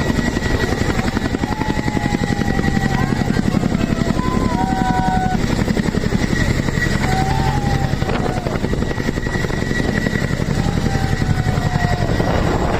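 Helicopter flying overhead, its rotor beating in a fast, steady chop with a low engine hum underneath.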